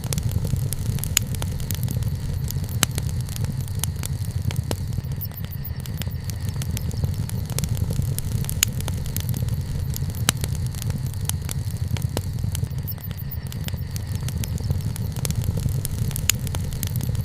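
Wood bonfire crackling, with irregular sharp pops over a steady low rumble.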